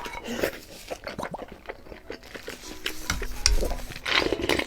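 A spoon clicking and scraping in a bowl with chewing, as someone eats fried rice, under background music whose short notes come in during the second half.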